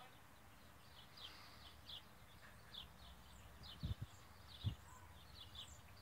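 Faint, short high bird chirps repeated throughout, with two soft low thumps a little under a second apart about four seconds in.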